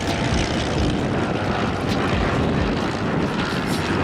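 Van's RV homebuilt light aircraft flying by, their propeller-driven piston engines running with a steady, even noise.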